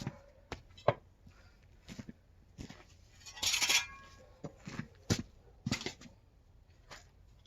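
Hand work with stones and a small shovel: about a dozen irregular knocks and clinks, with a short, harsh scrape about three and a half seconds in.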